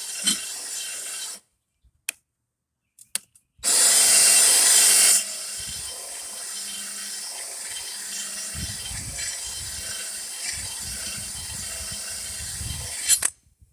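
Sharpening tool grinding along the edge of a steel lawn mower blade, taking the paint off and putting an edge on it. The grinding stops for a couple of seconds early on, comes back loudest for about a second and a half, then runs steadily until it cuts off just before the end.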